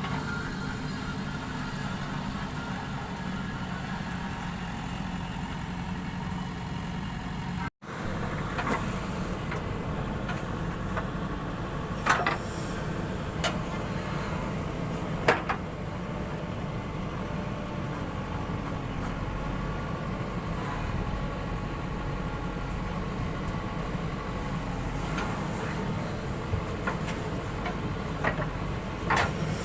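Heavy diesel machine engine running steadily at a low idle-like hum, with a few sharp knocks and clanks over it. The sound cuts out for an instant about eight seconds in, then carries on.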